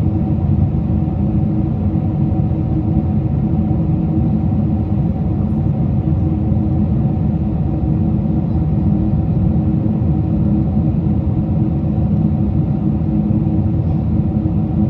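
Steady cabin noise inside a Boeing 747-400 airliner in flight during descent: a continuous drone of engines and airflow with a few steady hum tones running through it.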